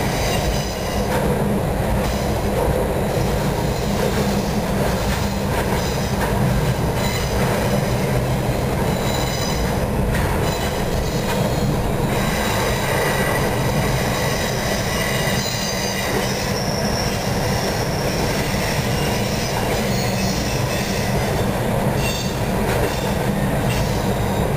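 Intermodal freight cars carrying truck trailers rolling past on steel wheels: a steady rumble with high wheel squeal that comes and goes, and a few clacks over the rail joints.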